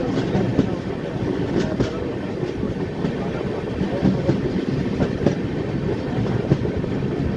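Passenger train running at speed, heard from beside the coach: a steady rumble of wheels on rails, with now and then a sharp click as the wheels cross the rail joints.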